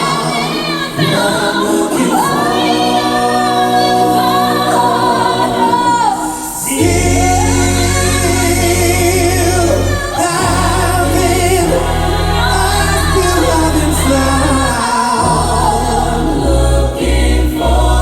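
Live vocal group singing in close harmony, unaccompanied at first; a heavy bass comes in about seven seconds in and carries on under the voices.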